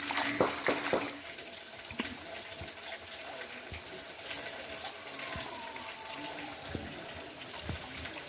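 Hot mineral spring water pouring steadily out of the rock and splashing, with scattered small knocks and drips.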